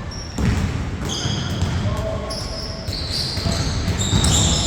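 Basketball game in play: a ball bouncing on the court, with many short, high squeaks from the players' shoes.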